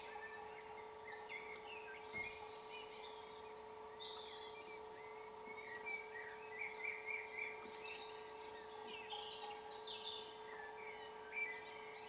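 Several birds chirping and singing in short, overlapping trills, over a faint steady hum.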